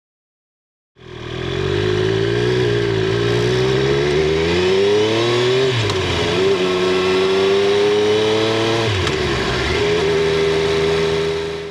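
Triumph Street Triple 765 R's inline three-cylinder engine pulling under acceleration. The pitch climbs, drops sharply about six seconds in and again about nine seconds in as the bike shifts up, then holds steady. It is heard from a microphone under the rear seat.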